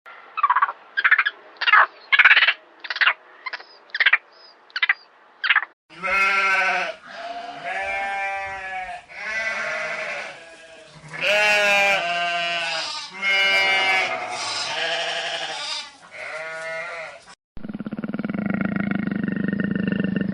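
A rapid series of about ten short, high animal calls, then a goat bleating: about six long calls with wavering pitch. A low, rough, steady animal sound begins near the end.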